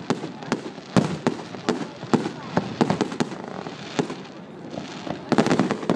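Fireworks going off: irregular sharp bangs and cracks, several a second, with a quick dense cluster of crackling reports near the end.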